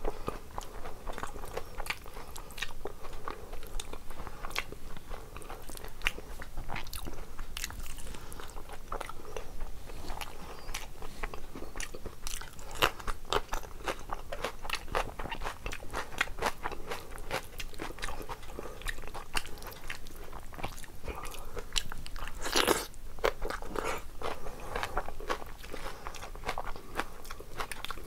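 Close-miked chewing of a mouthful of rice and curry eaten by hand: a steady run of small wet clicks from the mouth, with a denser, louder cluster about three-quarters of the way through.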